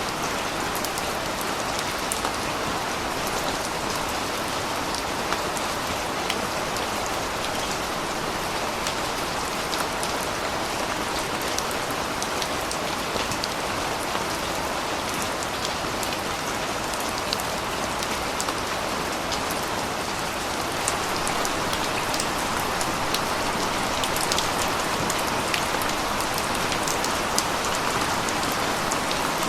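Steady rain falling and pattering on surfaces, with many individual drops ticking sharply over the hiss, getting a little louder about two-thirds of the way through.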